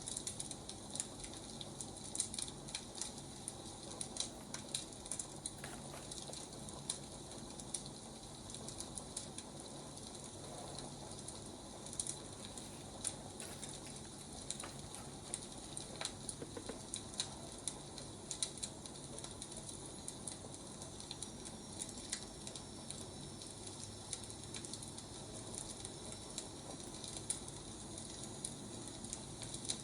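Wood fire burning: irregular sharp crackles and pops of firewood over a steady low hiss.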